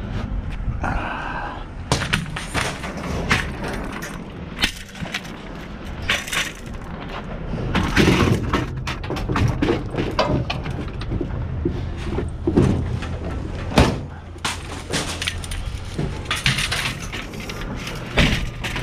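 Scrap being handled and tossed about: a run of irregular clanks, knocks and crashes over a steady low rumble.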